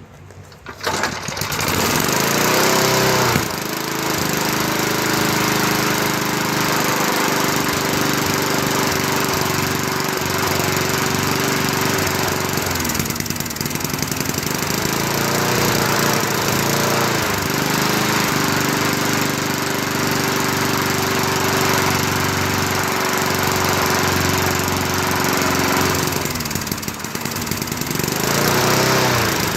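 A 3.5 horsepower Tecumseh single-cylinder lawn mower engine catches about a second in, on its first start after sitting unused for about five years. It then runs steadily, its speed sagging and picking up again a few times.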